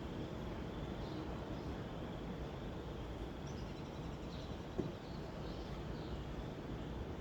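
Steady background hiss with a few faint bird chirps, and a single sharp click a little under five seconds in.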